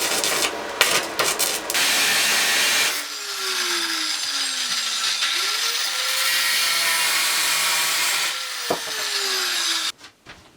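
Workshop tool noise: a few seconds of rough, rapid rasping strokes, then a steady grinding or sawing noise of a power tool working material, which stops abruptly near the end.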